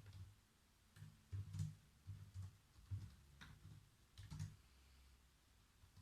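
Faint typing on a computer keyboard: keys struck in irregular short runs, each stroke a soft low thud with a light click. The typing stops for the last second and a half.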